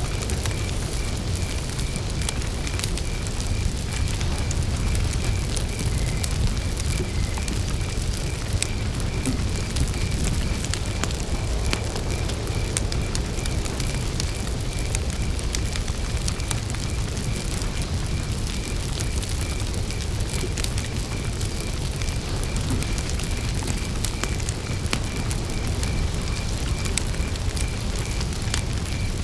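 A wood campfire burning with a steady low rumble and scattered sharp crackles and pops. Behind it, a cricket chirps in a steady, evenly pulsed rhythm throughout.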